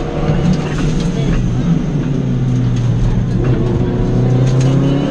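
Lancia Delta Integrale's turbocharged four-cylinder engine, heard from inside the cabin, driven hard and climbing in pitch through the second half before dropping off near the end.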